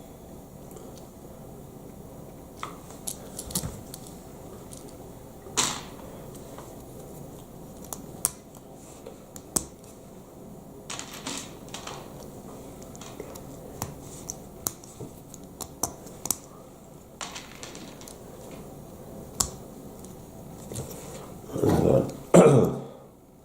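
Plastic Lego Technic pieces clicking and clacking as they are handled and pressed together: scattered sharp clicks at an uneven pace, with a louder burst of handling noise near the end.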